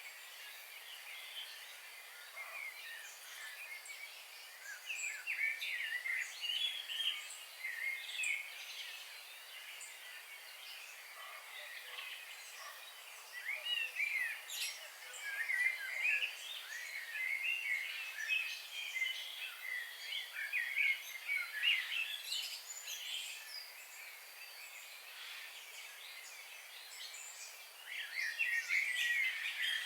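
Several birds singing at once in a busy chorus of short, quick chirps and trills, thickest in the middle stretch and again near the end, over a faint steady background hiss.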